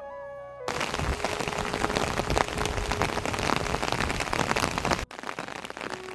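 Heavy rain falling on a surface, a dense hiss of many drops, cutting abruptly about five seconds in to quieter rain. A flute melody ends just before the rain comes in, and faint held flute notes sound under the rain.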